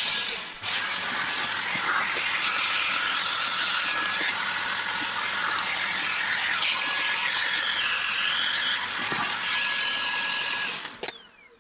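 Vacuum cleaner running with a steady, high hiss, briefly dipping about half a second in, then switched off near the end and winding down with a falling whine.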